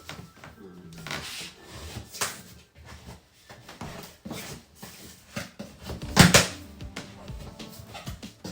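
Cardboard packaging being handled and pulled at: irregular rubbing and scraping with short knocks, the loudest knock about six seconds in.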